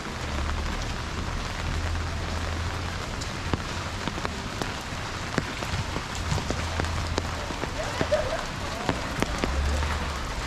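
Steady rain falling, with many sharp drop ticks scattered through it and a low rumble that comes and goes.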